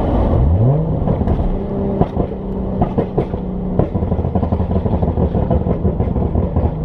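A Nissan V6 sports car engine accelerating hard. Its pitch climbs steeply in the first second or so, then holds high under load, with sharp cracks heard a few times in the middle.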